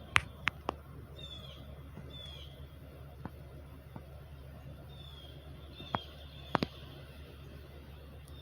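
Outdoor ambience with a steady low hum and a small bird calling in short, falling chirps several times. Sharp clicks stand out over it: three in quick succession at the start, and a few more near the six-second mark.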